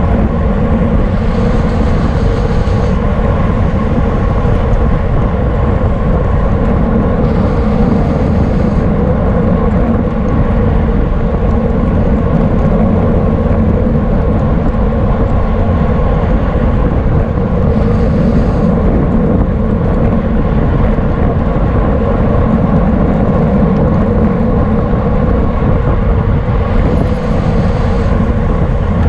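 Steady, loud rush of wind and road noise on a camera riding with a racing bicycle, with a constant hum underneath and a few brief higher hissing patches.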